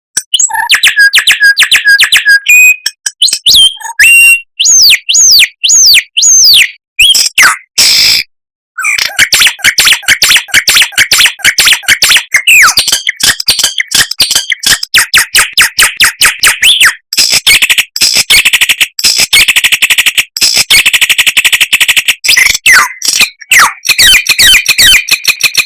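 A songbird singing loudly, in a recording of the kind used as masteran to teach caged birds. It opens with repeated whistled notes and swooping calls, breaks off briefly about eight seconds in, then goes into a fast, unbroken chattering trill.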